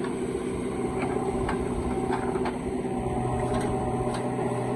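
Diesel engine of a backhoe loader or tractor running steadily at a constant pitch, with a few light knocks scattered through it.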